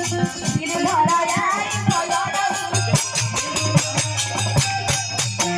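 Live folk music with a steady, rapid percussion beat of shaken and struck rhythm instruments under a melody line.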